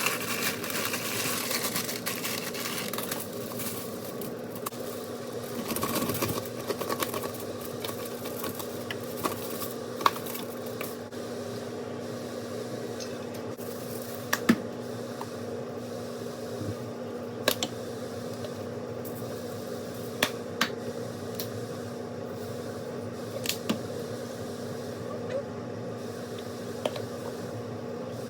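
Kitchen sounds: a steady appliance hum, with scattered clicks and knocks of cookware and utensils.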